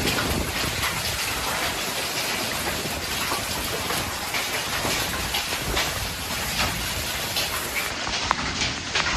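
Heavy thunderstorm rain pouring steadily, with scattered sharp taps.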